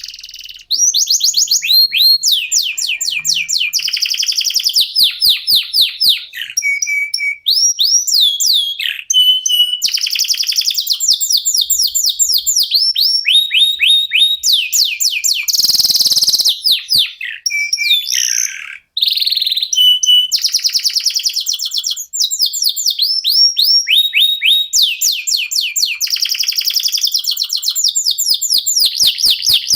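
Local domestic canary (kenari lokal) singing in full song: fast rolling trills of rapidly repeated sweeping notes, switching to a new run of notes every second or so, with a short break about two-thirds of the way through.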